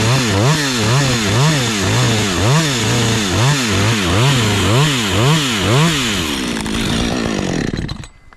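Chainsaw running at high revs, its pitch rising and falling about twice a second, then winding down and going quiet near the end.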